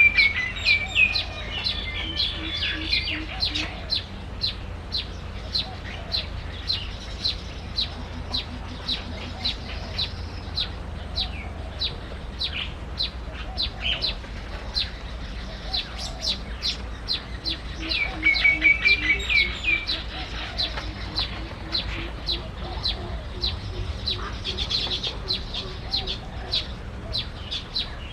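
Small bird chirping steadily, short high chirps about twice a second, broken by a brief trilled phrase near the start and again about two-thirds of the way through.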